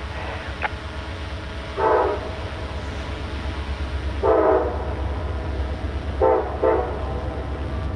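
Diesel locomotive's multi-chime air horn, a Nathan K5LA on the approaching lead unit, sounding four blasts: a short one about two seconds in, a longer one past the middle, then two short ones close together near the end. A steady low rumble runs underneath.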